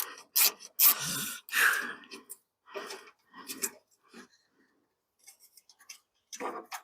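Short, irregular scraping and rubbing strokes of hand-tool work on small screws holding a truck headlight's retainer ring, with a brief pause partway through and then lighter quick ticks and scrapes near the end.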